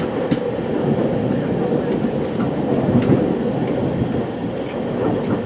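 A West Coast Express commuter train running along the track, heard from inside the passenger car as a steady loud rumble with a few faint clicks from the wheels and rails.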